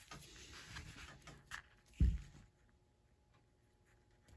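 Faint handling noises of small fishing-rig parts and bait being picked up, with one low thump about two seconds in, then near silence.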